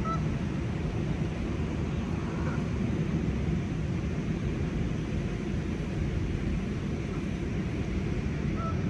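Steady low rumbling outdoor noise with a few faint goose honks, one just at the start and another near the end.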